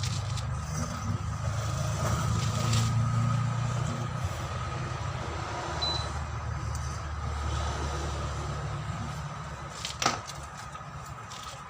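A heavy engine running with a steady low rumble that eases off about nine seconds in, with a thin steady whine above it. There is one sharp knock about ten seconds in.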